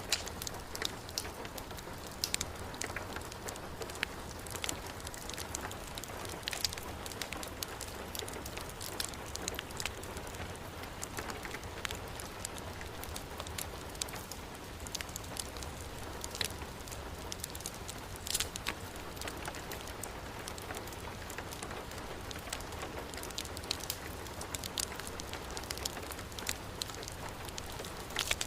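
Heavy rain falling steadily, mixed with a wood fire in a fireplace, with many scattered sharp crackles and pops over a low steady rumble.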